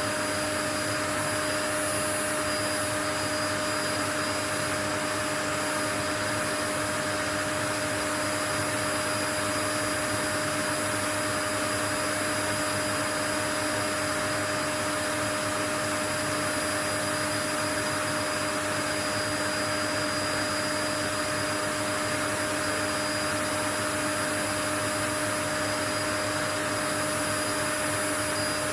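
Steady, unchanging rushing noise of a white-noise track, heaviest in the middle range, with a faint machine-like hum of a few steady tones running through it.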